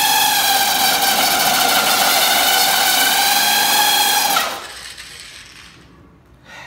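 Electric drill with a carbide hole saw, its motor whining at a steady high pitch as it spins against the steel hood to start the cut. The saw is struggling to bite. About four and a half seconds in the trigger is released and the motor winds down.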